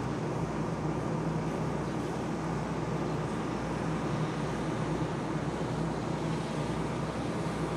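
Engine running at a steady speed: a constant low drone with an even hum, unchanging throughout.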